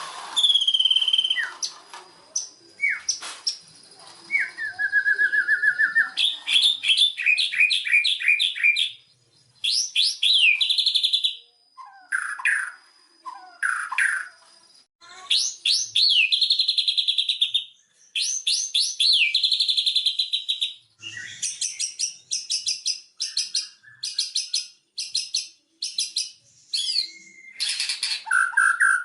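White-rumped shama (murai batu) singing a long, varied song. Clear whistles and slurred notes alternate with trills and fast runs of sharp repeated notes, with brief pauses between phrases.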